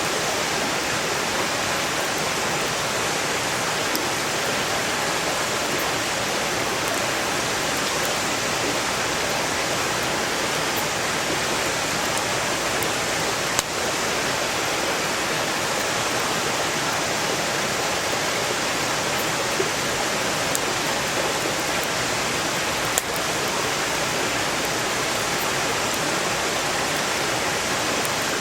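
Mountain stream rushing steadily, with a few sharp pops of burning firewood over it.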